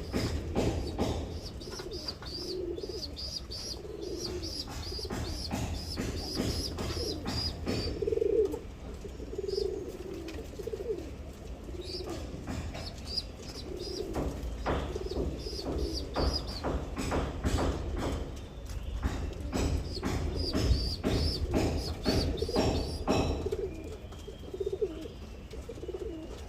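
Domestic pigeons cooing repeatedly, with high chirping calls in bursts and scattered light clicks and knocks among them.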